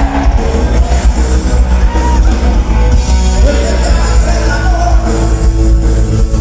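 Loud live band music with a heavy bass, a voice singing over it.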